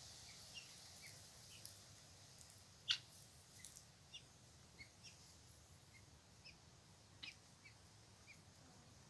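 Birds chirping faintly: short chirps scattered through the quiet, with one louder chirp about three seconds in.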